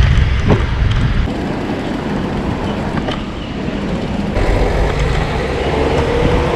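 Steady rushing noise of riding a bicycle, with wind on the microphone and vehicle traffic, and a couple of light knocks.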